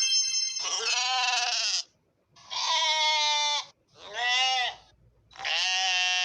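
Sheep bleating four times, each call about a second long with a wavering pitch, after a brief steady tone at the very start.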